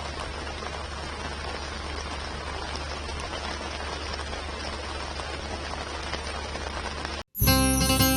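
Heavy rain falling, a steady even hiss. Near the end it cuts off abruptly and strummed acoustic guitar music begins.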